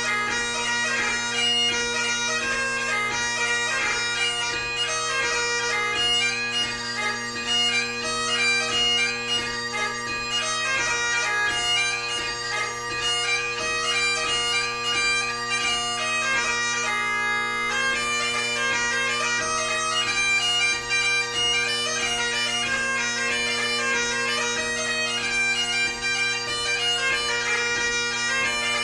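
Great Highland bagpipe played solo: a quick-moving chanter melody over steady bass and tenor drones, a light-music (ceòl beag) tune.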